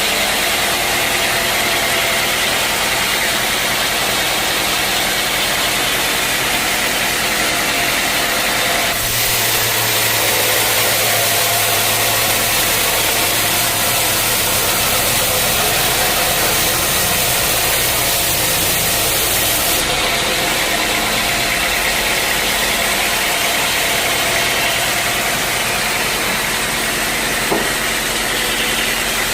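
Sawmill machinery running steadily with a continuous mechanical hum and hiss. From about 9 to 20 seconds in it turns brighter and hissier, with a stronger low hum, then settles back.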